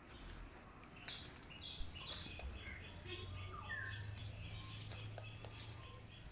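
Birds chirping outdoors: short high calls, with a run of quickly repeated notes in the middle.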